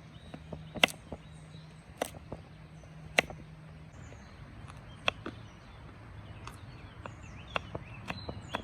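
Sharp, irregular knocks or clicks, a second or more apart, over a faint outdoor background, with small bird-like chirps coming more often near the end.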